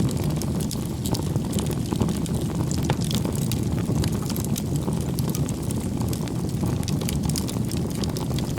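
Wood campfire burning: a steady low rumble of flames with frequent, irregular crackles and pops from the burning firewood.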